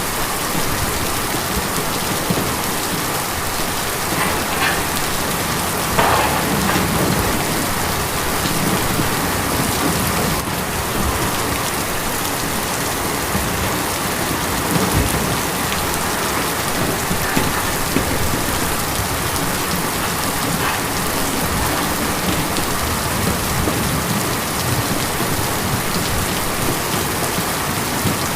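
Steady heavy rain drumming on a tin roof, with a few louder drops standing out now and then.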